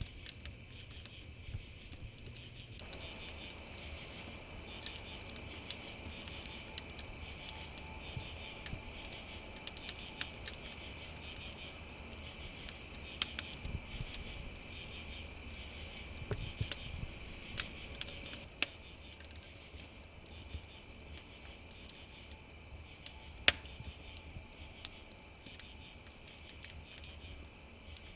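Wood fire crackling with irregular sharp pops, one louder pop late on, over a steady chorus of crickets chirping.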